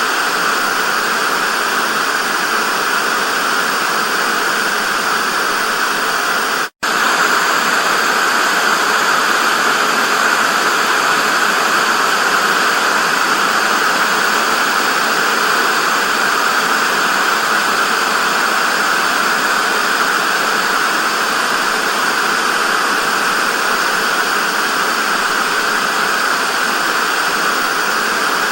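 TV static: a steady, loud hiss, brightest in the upper-middle range, with a split-second drop-out to silence about seven seconds in.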